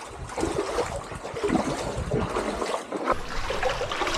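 Shallow seawater sloshing and trickling, with small irregular splashes as someone wades through it.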